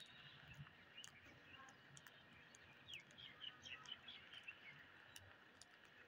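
Faint bird chirps, in a quick run of short calls in the middle, with scattered light clicks.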